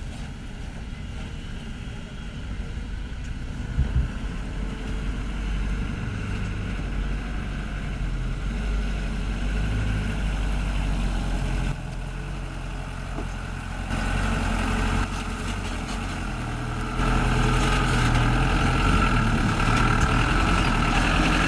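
Overloaded dump truck's engine running with a steady low rumble, growing louder, with sudden jumps in level and engine note a few times toward the end.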